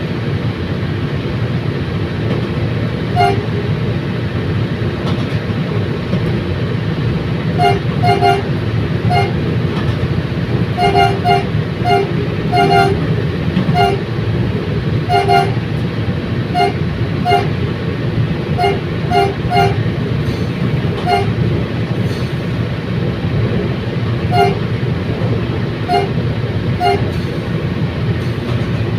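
Steady rumble of a commuter train under way, with a horn giving many short toots in irregular clusters through it.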